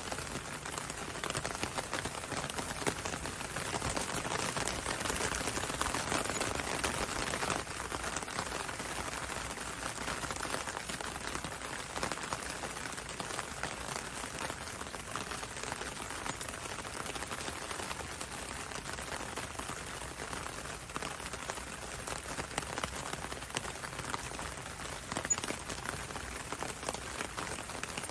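Steady gentle rain: many small drops ticking on a window over the even hiss of rain on a road, a little heavier a few seconds in.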